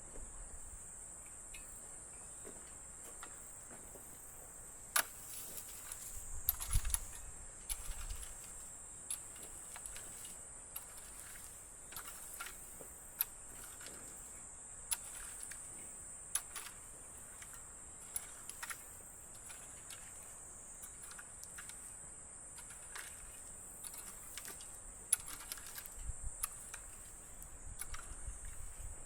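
Steady high-pitched insect drone, with scattered sharp clicks and light knocks and a couple of brief low rumbles.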